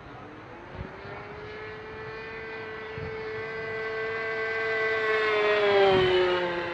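A petrol-engined single-propeller radio-controlled model airplane flies past. Its engine drone grows steadily louder, peaks about six seconds in, then drops in pitch as the plane passes and moves away.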